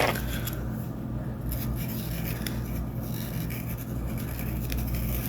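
Black felt-tip marker scratching and rubbing on a paper plate as the eyes are drawn, with faint ticks of the tip against the surface, over a steady low electrical hum.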